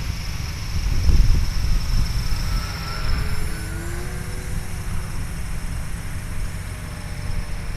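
1400 mm RC model Cessna 182's motor and propeller droning in flight at about a third throttle. Its tone shifts in pitch around the middle as the plane moves. A low rumble of wind on the microphone lies under it, loudest about a second in.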